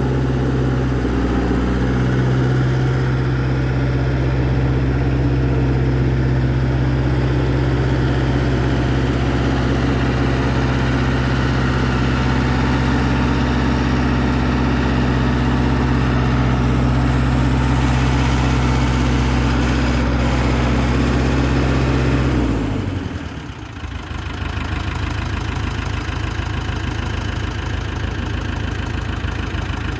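Ford wheeled excavator's engine running steadily at a constant speed. About three-quarters of the way through, the steady hum falls away and gives way to a rougher, lower running sound.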